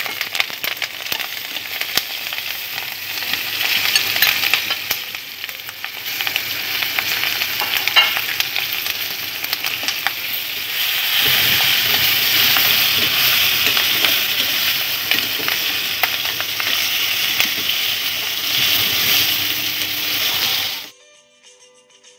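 Masala-stuffed green chillies sizzling in hot mustard oil in a pan: a dense crackling hiss with scattered sharp pops, growing louder about halfway through. It cuts off suddenly near the end, leaving faint music.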